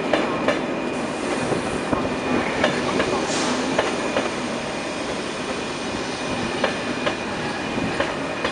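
Corail passenger coaches rolling slowly past along a platform, the wheels clacking irregularly over rail joints, with a thin steady wheel squeal. A short hiss comes about three seconds in.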